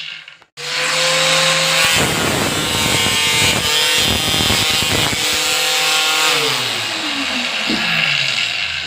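Angle grinder running with a steady motor whine, its disc grinding into a plastic TV remote with a harsh rasping noise from about two seconds in. Near the end the motor's pitch sags several times as it slows under the load of the cut.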